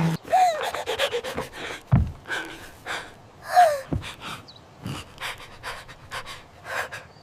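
A cartoon character panting, with a couple of short falling squeaky calls, over a scatter of clicks and knocks and two deep thumps.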